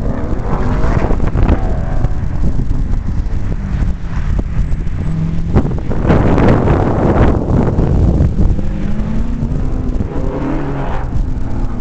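Car engine revving up and falling back again and again as it accelerates and slows through an autocross course, with wind buffeting the microphone.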